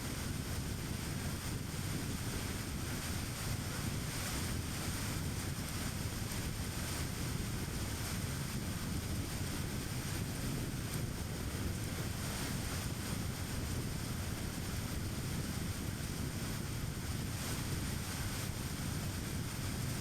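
Steady road and tyre noise with wind rush from a car driving at a constant speed, with no gear changes or passing events.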